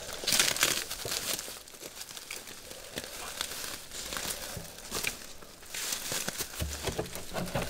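Footsteps and rustling in dry leaves and brush, coming in scattered crunchy bursts as people push through scrub. The loudest stretch is about half a second in.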